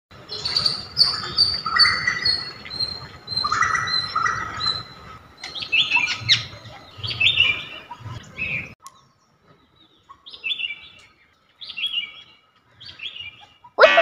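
Birds chirping and tweeting in quick runs of short high calls, busy for most of the first nine seconds, then only a few scattered chirps. A tinkling music jingle starts at the very end.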